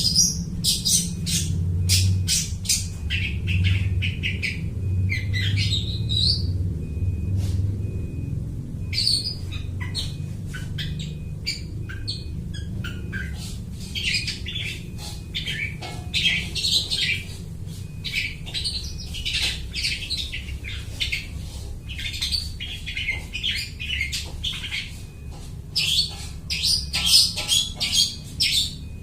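A long-tailed shrike (cendet) singing continuously: a rapid, varied run of chirps, whistles and harsh squawks in which it mimics other birds' calls.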